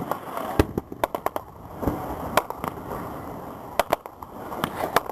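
Firecrackers popping: about a dozen sharp bangs at irregular intervals, some in quick pairs, over a steady outdoor background haze.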